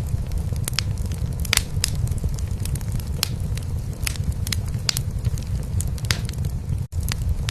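Wood fire in a fireplace crackling, with irregular sharp pops and snaps, over a steady low cat purr. The sound drops out for an instant near the end.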